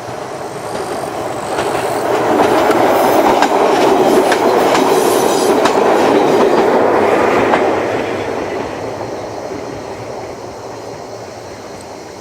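Ichibata Electric Railway 2100 series electric train, a former Keio 5000 series, passing by. Its rumble swells to a peak for several seconds and then fades away, with wheels clicking over rail joints while it is loudest.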